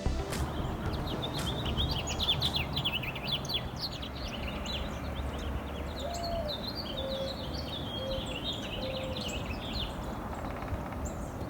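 A flock of small birds chirping and chattering continuously, with a few lower, drawn-out notes around the middle, over a steady low rumble.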